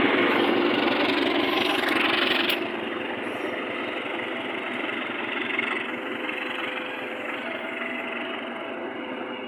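Diesel-hauled commuter train running as it departs the station, its engine and running noise loud for the first couple of seconds, then dropping to a steadier, quieter rumble.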